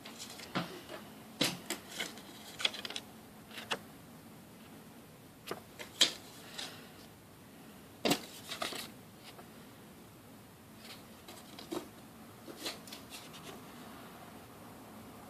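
Irregular sharp clicks and taps, a dozen or so scattered through, the loudest about six and eight seconds in, over a low background hush.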